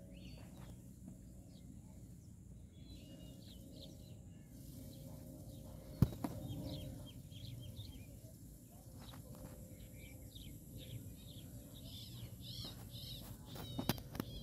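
Outdoor ambience of small birds chirping again and again over a low steady rumble, with one sharp click about six seconds in.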